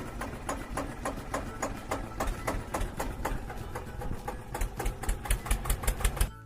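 Tractor engine running with a quick, even chugging rhythm, getting louder near the end and cutting off abruptly.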